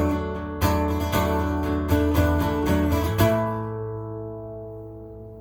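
Acoustic guitar strumming the closing chords of a song, with the final chord struck about three seconds in and left to ring out and fade.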